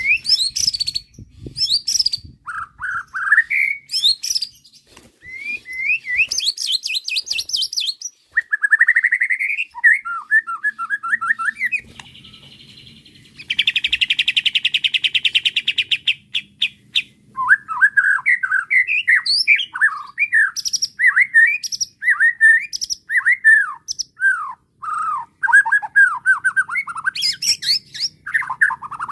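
White-rumped shama singing a varied, agitated song: quick high sweeping whistles, then a harsh rapid rattle about halfway through, followed by a long string of short rising and falling whistled notes.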